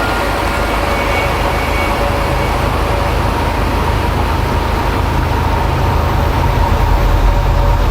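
Train running by: a steady low rumble with faint, thin whining tones above it, the rumble growing louder near the end.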